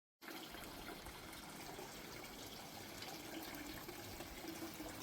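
Water running steadily into a pond, coming in abruptly just after the start.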